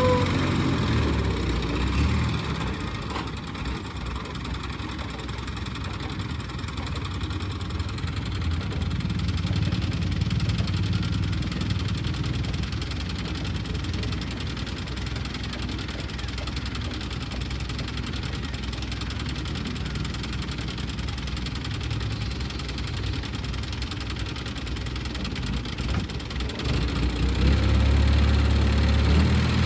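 Heavy diesel machinery engine running at a low, knocking idle, then revving up louder near the end.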